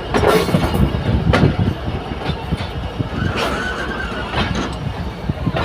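Train running on the track: a steady low rumble with irregular knocks and clatter.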